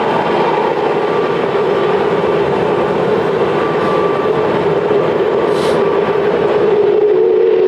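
Airbus A330-900 jet airliner's Rolls-Royce Trent 7000 engines running at high power during departure: a steady, loud jet noise with a droning tone that steps slightly higher near the end.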